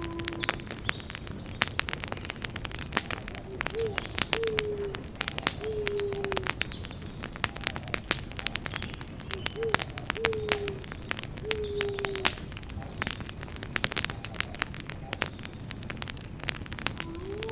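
Campfire crackling and popping with dense, irregular sharp snaps over a steady low rush of burning wood. A bird calls in two runs of three short, low, slightly falling notes, a few seconds apart.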